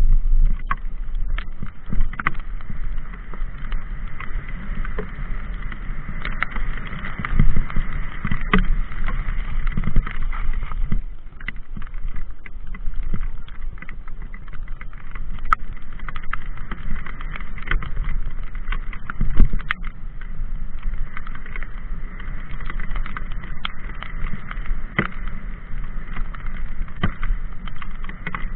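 Mountain bike ridden over a rough trail: a steady rumble of tyres and wind, with frequent knocks and rattles from the bike jolting over bumps.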